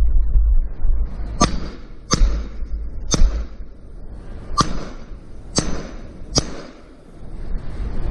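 Six sharp cracks at uneven intervals over a steady low rumble.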